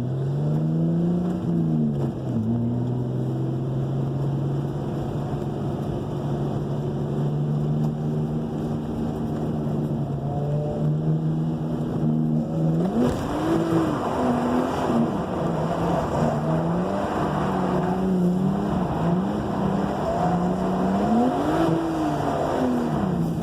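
Car engine with a newly fitted exhaust, running at steady revs for about the first half, then revving up and dropping back several times as the car accelerates through the gears.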